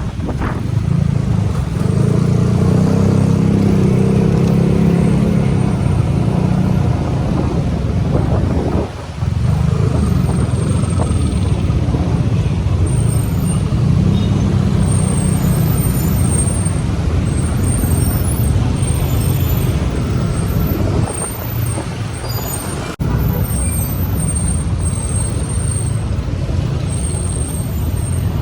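Motorcycle ride in traffic: a steady, loud rumble of wind and engine on the microphone, with road traffic around it. The sound dips briefly about nine seconds in and breaks off abruptly and resumes a little past twenty seconds.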